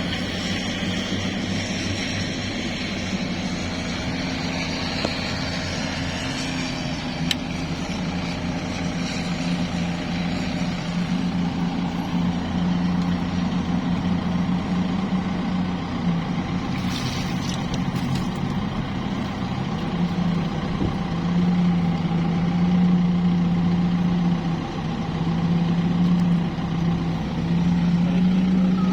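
A large vehicle's engine running steadily: a low drone that gets somewhat louder about two-thirds of the way through.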